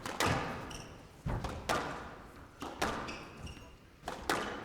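Squash rally: the ball cracks off rackets and the court walls in a string of sharp hits that echo in the court, with short shoe squeaks between them.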